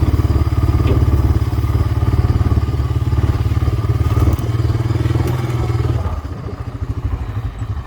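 Four-wheeler (ATV) engine running steadily under throttle, then easing off about six seconds in and running on more quietly.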